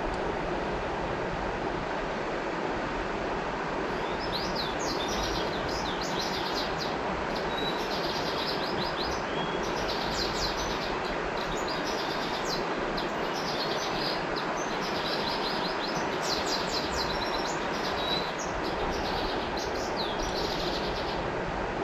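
River water rushing steadily, with a small bird singing quick, high chirping phrases over it from about four seconds in, repeated almost without pause.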